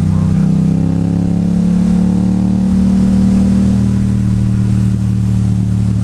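Yamaha MT-07's parallel-twin engine pulling under load while being ridden. Its pitch rises gently over the first few seconds, then holds steady.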